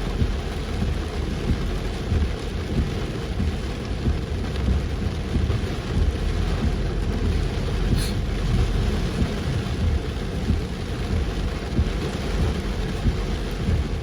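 Heavy rain falling steadily on a moving car, with a dense low rumble underneath.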